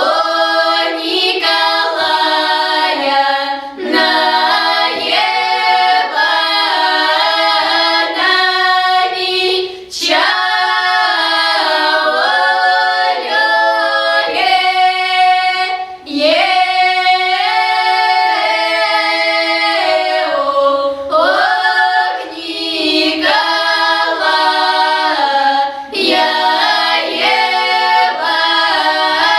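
A children's folk choir singing a Russian folk song in several voices. The phrases break off briefly every five or six seconds.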